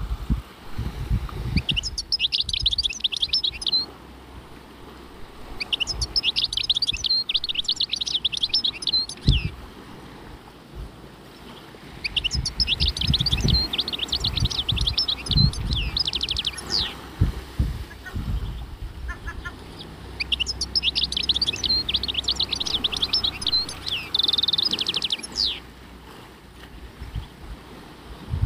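A songbird singing the same rapid, high-pitched phrase over and over, each phrase about three seconds long with a pause of a few seconds before the next. Low rumbles and thumps sound underneath.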